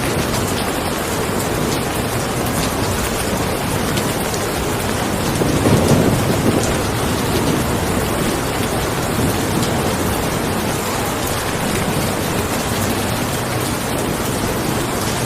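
Steady, heavy rain, with a low rumble of distant thunder swelling briefly about six seconds in.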